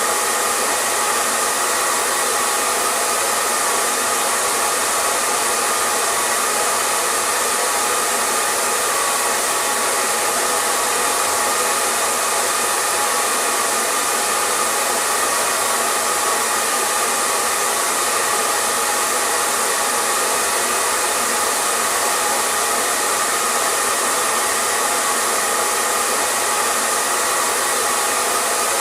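Hair dryer running continuously at a constant setting: a steady, even blowing hiss with a faint motor hum and no change in speed.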